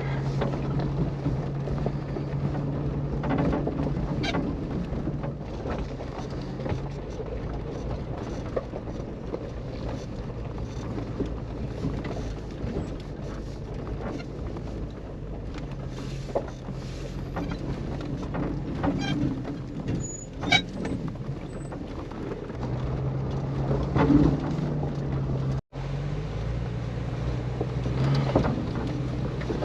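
Jeep Cherokee XJ driving down a rough mountain trail: a steady low engine drone with rumbling road noise and scattered knocks and rattles. The engine note fades in the middle and comes back. The sound cuts out for a moment near the end.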